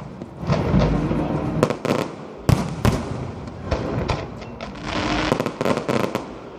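Aerial fireworks going off in quick succession: sharp bangs and crackles over low rumbling booms, with a dense run of crackling near the end.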